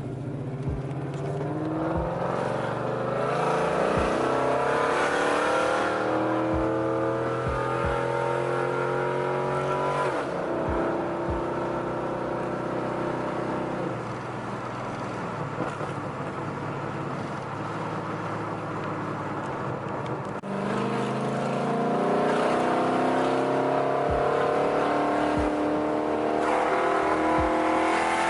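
A car engine accelerating, its note climbing in long steady pulls. The note drops back about ten seconds in, holds for a while, then climbs again in the last third.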